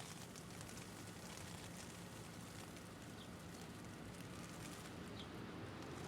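Hail ticking steadily against the low rumble of city traffic, the traffic growing a little louder toward the end. Two faint short chirps come through the ticking, about three and five seconds in.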